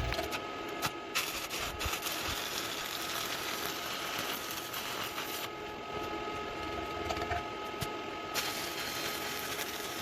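Stick (shielded metal arc) welding arc crackling and hissing steadily as a bead is laid, played back sped up. The hiss thins in the middle and comes back near the end.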